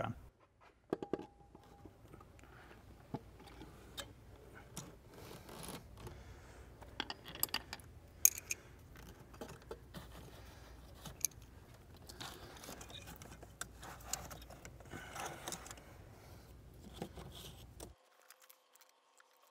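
Hand tools and metal engine parts being handled: scattered light clicks, clinks and scrapes, with a sharper tap about eight seconds in.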